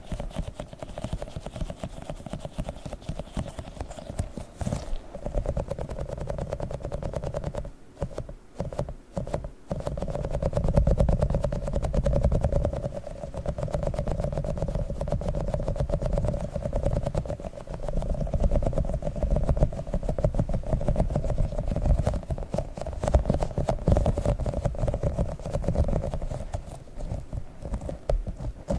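Tiny sticky octopus toy handled close to the microphone: rapid sticky clicks and crackles over low thumping rubs, with a short pause about eight seconds in.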